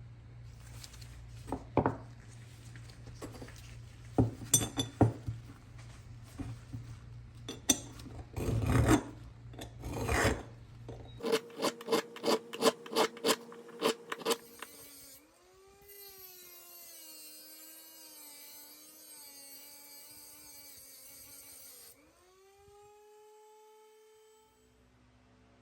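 Hand tool scraping and rasping on a workpiece in irregular strokes, then a quick run of about four even strokes a second. After that, a fainter wavering whine that rises in pitch near the end.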